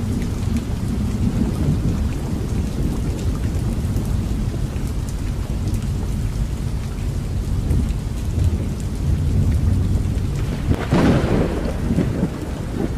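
Rain falling in a thunderstorm: a steady hiss with fine drop ticks over a continuous low rumble. A louder crackling surge comes about eleven seconds in.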